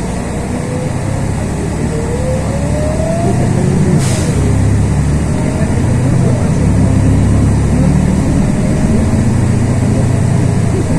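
Cabin of a LiAZ 6213.22 articulated city bus under way: engine and drivetrain running with a low rumble and a whine that rises in pitch several times as the bus picks up speed. A short hiss of air comes about four seconds in.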